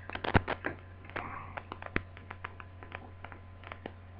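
Multimeter test probes and a laptop adapter's DC plug being handled, giving small irregular clicks and taps, several close together in the first second, over a steady low hum.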